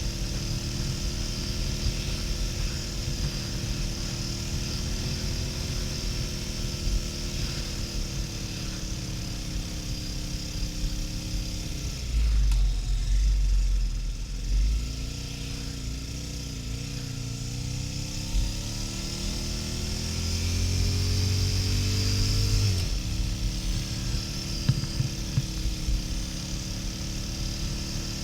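Harley-Davidson XL1200N Sportster's 1200 cc V-twin engine running at highway speed, with wind buffeting the helmet-camera microphone. The engine note drops about twelve seconds in, climbs steadily for several seconds, then falls sharply near the end, as at a gear change.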